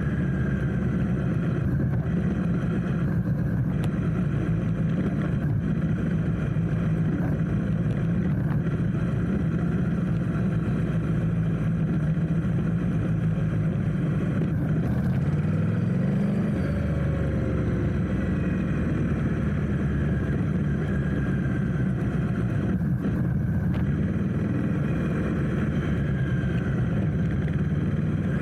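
Motorcycle engine running steadily at low revs in traffic, over a constant rush of road and wind noise. About sixteen seconds in, the engine note rises briefly as the bike pulls away.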